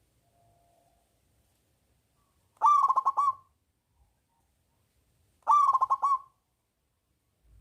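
Zebra dove (perkutut) singing its cooing song twice, each phrase under a second long and made of a quick run of repeated notes.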